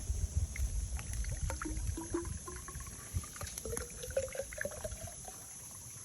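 Water pouring into a bamboo tube, with a trickling sound and a few short pitched gurgles, one rising about halfway through, among scattered small knocks.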